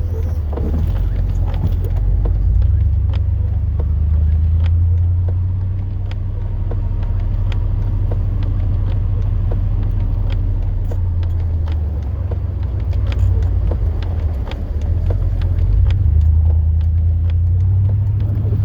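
Chevrolet Silverado plow truck running with a steady low rumble, with scattered short clicks and knocks over it.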